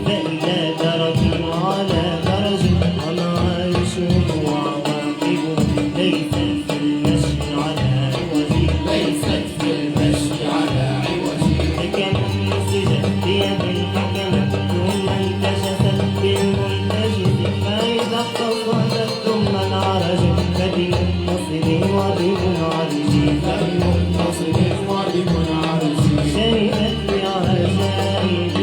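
Malouf ensemble playing live: a steady rhythm of drum strokes under wavering melodic instrument lines.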